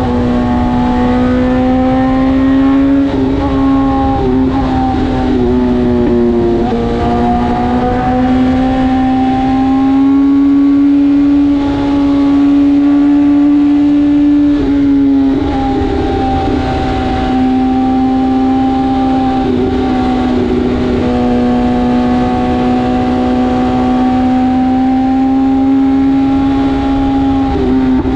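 BMW S1000RR's inline-four engine running at a steady high-pitched cruise under way, its note shifting briefly a few times as the throttle is eased and reopened.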